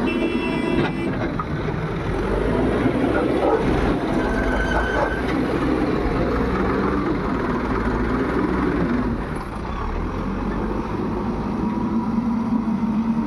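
Heavy diesel engines running steadily as a JCB loader works beside tractors, a continuous low rumble. There is a brief high tone in the first second and another about four seconds in.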